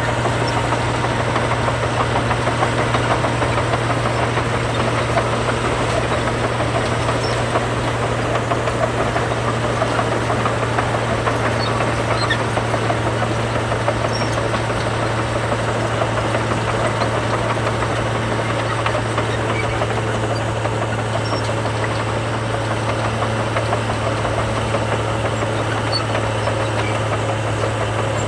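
Heavy construction machine's diesel engine running steadily with a deep, even drone; its pitch dips slightly near the end.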